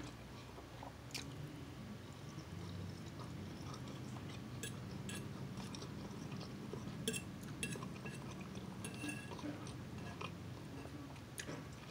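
Chewing and mouth sounds of someone eating scrambled eggs, with a few light clicks as a metal fork touches the plate, over a steady low hum.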